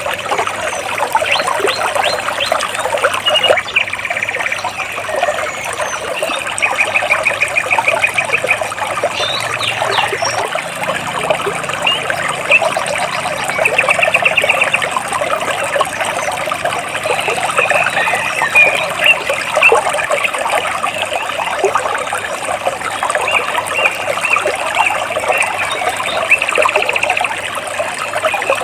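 Stream water splashing and trickling over rocks, a steady rushing babble, with birds chirping in short rapid trills that come and go several times.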